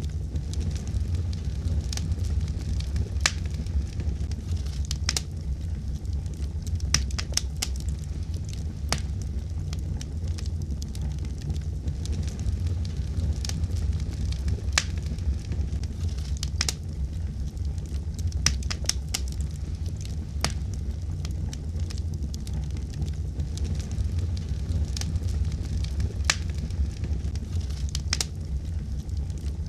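Wood fire burning in a fireplace: a steady low rumble of flames with irregular sharp crackles and pops, some coming in quick clusters.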